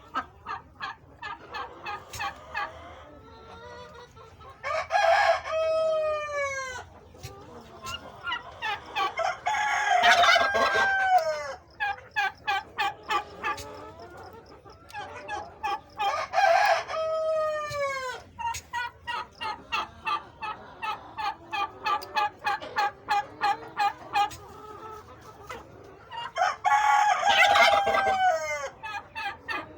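Chukar partridges calling: steady runs of short repeated chuck notes, about three a second. Four times these are broken by a longer, louder crow-like call that drops in pitch at its end.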